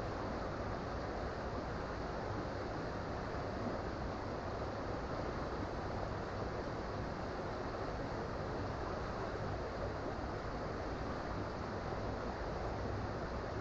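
Creek water flowing over rocks, a steady rushing with no change in level.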